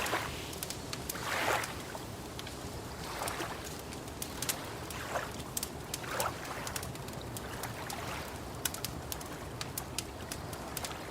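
Wood fire crackling, with frequent sharp pops and snaps, over soft lapping of lake water that swells every second or two.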